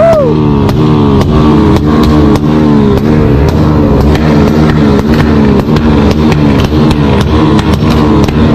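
Honda Tornado 250 single-cylinder four-stroke engine held against its rev limiter, bouncing off the cut in a steady rhythm of about two to three cuts a second, each with a sharp crackle.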